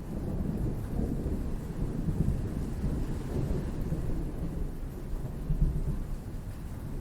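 Thunder rumbling low and long, swelling through the middle with a stronger crack-like peak late on, over steady rain.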